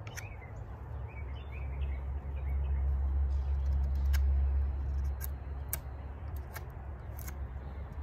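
Small birds chirping a few times in the first two seconds, over a low rumble that swells through the middle and a few light ticks.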